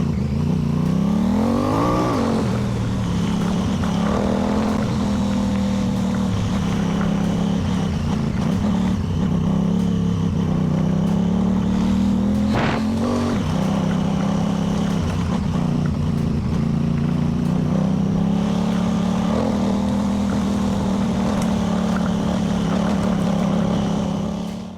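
Honda Africa Twin parallel-twin motorcycle engine on the move, rising in pitch as it accelerates over the first couple of seconds, then running at a steady cruising note with road and wind noise. There is one brief sharp knock about halfway through.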